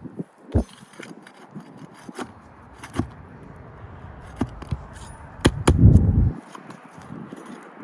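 Scattered sharp knocks, taps and scrapes of a hammer and flat bar working on roof shingles, with a loud low rumble about five and a half seconds in that lasts under a second.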